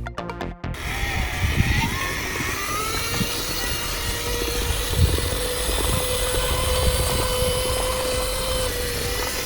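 Electronic background music stops abruptly under a second in. Then the small electric motor of a remote-control model tractor whines, rising in pitch over the next second or two and then running at a steady pitch, over a low rumbling noise.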